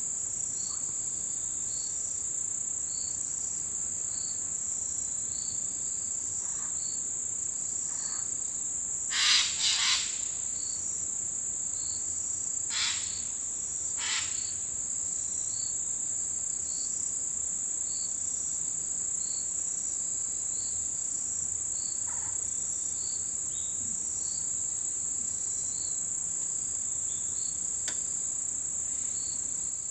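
Autumn insects singing: one keeps up a continuous high-pitched trill while another chirps about once a second. A few short, louder calls break in about a third of the way through.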